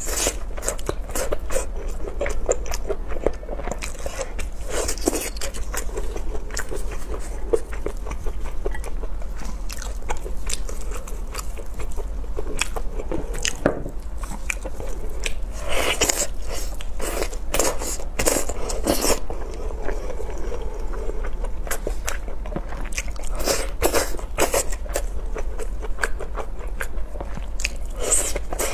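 Close-miked mukbang eating sounds: biting and chewing spicy braised chicken, with many quick wet mouth clicks and crunches, and louder clusters of bites now and then. A steady low hum runs underneath.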